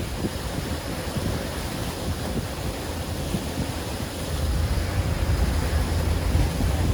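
Wind buffeting the microphone in uneven gusts over a steady wash of lake water.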